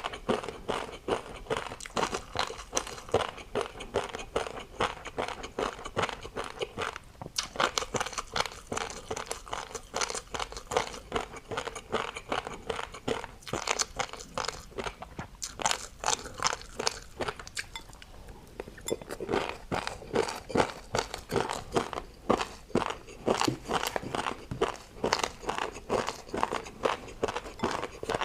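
A person chewing crunchy food close to the microphone: a dense, rapid run of crunches, easing briefly about two-thirds of the way through.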